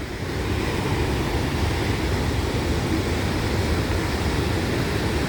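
Steady rushing roar of a waterfall, growing louder about half a second in and then holding even.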